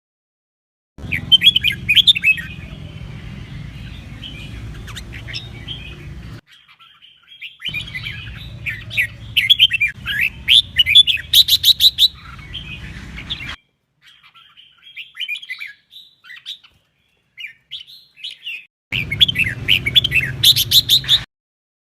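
Red-whiskered bulbul singing in quick, chirpy warbled phrases, in several bursts that cut off abruptly into dead silence, with a low hum under the song.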